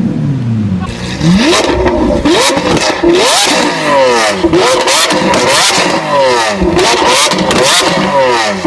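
Supercar engine revved hard again and again through its exhaust, its pitch shooting up and dropping back roughly once or twice a second, with sharp crackles among the revs. It eases off briefly about a second in before the run of revs starts.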